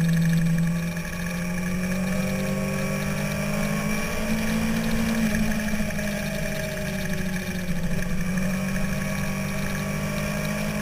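Sport-bike inline-four engine running steadily at road speed, its pitch stepping up about a second in and then holding fairly even with small rises and falls, over a steady rush of wind on the microphone.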